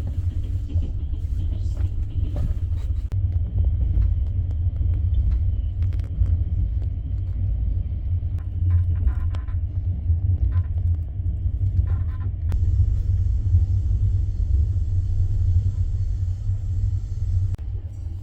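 Steady low rumble of a passenger train running, with a few faint clicks over it.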